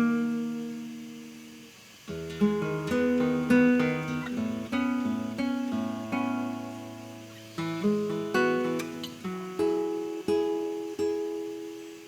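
Solo classical guitar played in recital: a chord rings and fades over the first two seconds, then phrases of plucked melody notes over held bass notes, ending on a chord that dies away.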